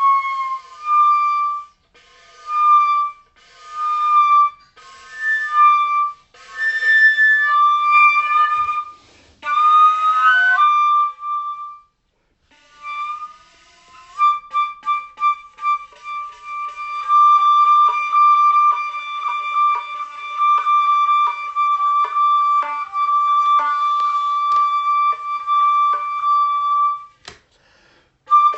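Solo wind-instrument music with a single high melodic line. Short phrases with breaks run for about the first twelve seconds. After a pause, one long held high note with fast repeated pulses follows, cutting off briefly near the end before it resumes.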